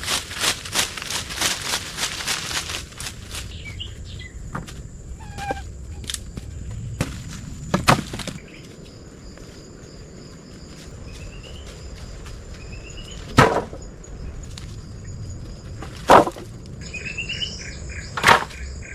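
Quick scraping strokes for the first three seconds, then a handful of sharp wooden knocks a few seconds apart. Birds chirp and insects keep up a steady high drone behind them.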